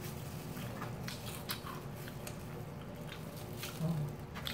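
Close-up chewing and biting of crispy fried chicken, with scattered short crunches and clicks from the crust.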